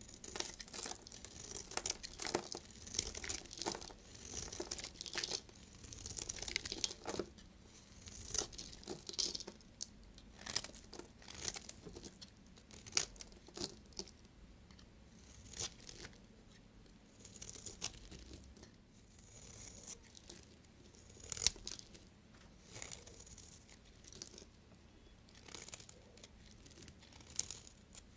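A knife cutting through bars of soap: an irregular series of crisp scraping and cracking strokes, one after another.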